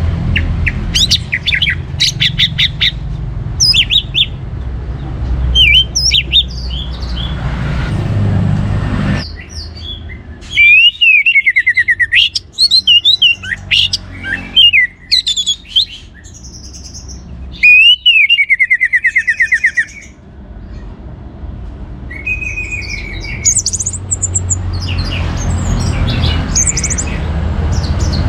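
Orange-headed thrush singing a varied, loud song of short whistled phrases, including fast falling trills about a third of the way in and again past the middle. A low rumble lies under the song at the start and near the end.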